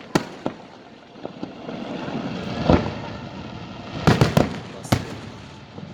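Fireworks display: aerial shells bursting with sharp booms over a steady crackle. One loud bang comes near three seconds in, and a quick cluster of three bangs about four seconds in.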